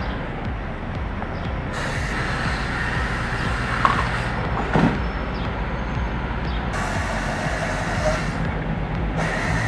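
A large diesel engine running steadily, with a brief metallic squeal or knock about four and five seconds in.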